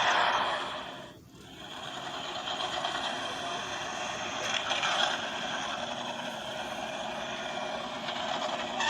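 Recorded car engine sounds used as a soundtrack, running steadily with a brief sharp dip about a second in.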